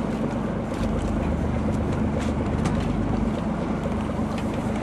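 Boat engine running steadily: an even, unchanging drone, with a few faint clicks over it.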